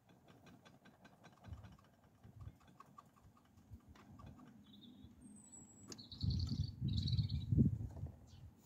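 A bird chirping outdoors in short high calls and trills during the second half, with a brief falling whistle among them. Before that comes a run of faint, rapid light clicks, and a low rumble rises under the chirps near the end.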